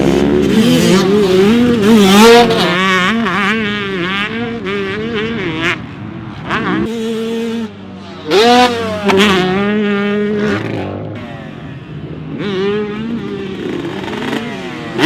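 Two-stroke motocross bikes revving hard and letting off, their engine pitch rising and falling over and over as they ride, with sharp high-pitched rev peaks at intervals and more than one bike heard at once.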